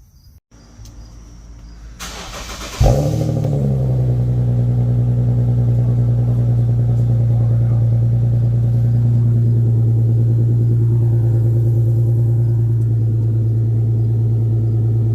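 Infiniti Q50's 3.7-litre V6 starting through an aftermarket exhaust. The starter cranks briefly and the engine catches about three seconds in with a quick rev flare. It then settles into a steady, loud idle.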